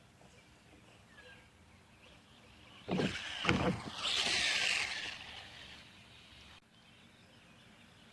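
Remo Hobby 1096 RC monster truck driving: two sharp knocks about three seconds in, then a burst of motor and tyre noise for about two seconds that fades away.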